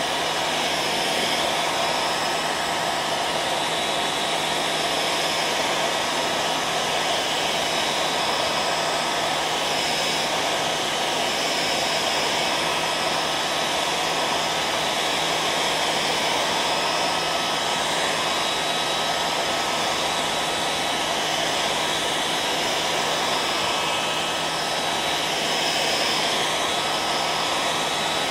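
Hair dryer running steadily: an even rush of blown air with a thin, steady motor whine over it.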